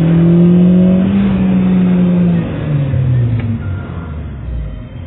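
Car engine heard from inside the cabin, its note rising slightly and holding for about two seconds, then dropping to a lower tone that fades as the car slows.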